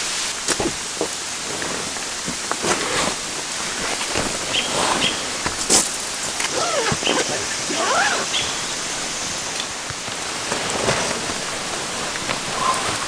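Steady rain falling, with scattered rustles and knocks as a bulky fabric tent bag is hauled out of a car's cargo area and handled.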